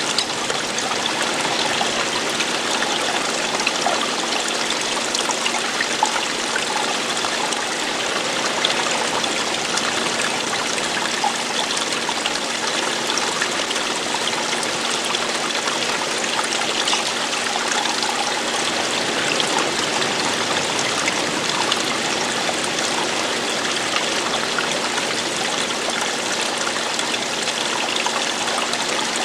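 Running water falling and flowing, a steady, even rush that doesn't change.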